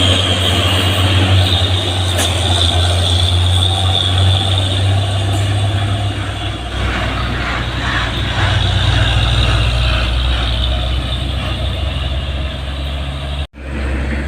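Heavy truck's diesel engine running loud and steady under load as it climbs, with a short break in the sound near the end.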